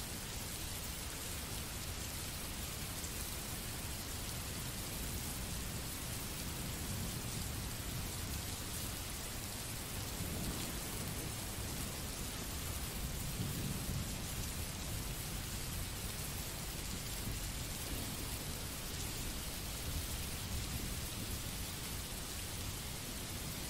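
Recorded rain falling steadily, an even hiss of drops, with low rumbles of thunder about ten seconds in and again a few seconds later.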